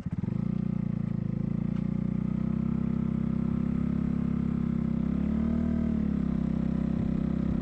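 Motorcycle engine idling steadily, with a brief slight rise and fall in pitch about five and a half seconds in.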